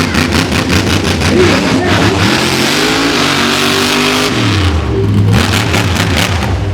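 Monster truck engine revving hard, its pitch climbing and falling with the throttle. It holds a high rev for about two seconds in the middle, then drops back.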